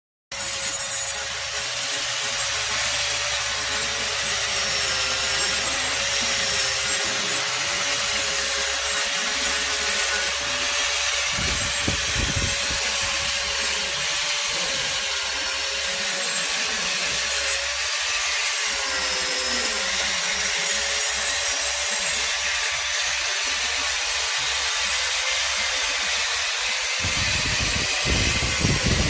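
Electric power tool motor running steadily, a constant hiss with a whine whose pitch wavers slightly.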